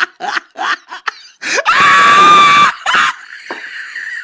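A person laughing in quick repeated bursts, then a loud, high-pitched scream lasting about a second, followed by a steady rushing noise.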